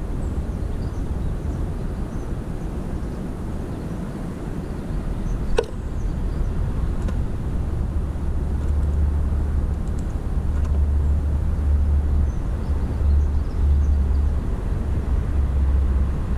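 Outdoor low rumble that grows louder about halfway through, with faint high chirps of garden birds at a feeder and one sharp click about five and a half seconds in.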